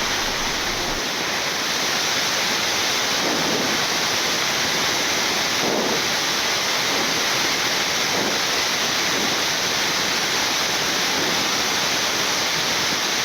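Steady rushing hiss of airflow and air-conditioning noise on a Boeing 787-9 flight deck in the climb.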